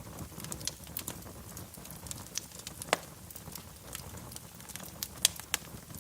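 Wood fire crackling in a fireplace: scattered sharp pops and snaps over a low, steady rumble of flame. The loudest pops come about three seconds in and near the end.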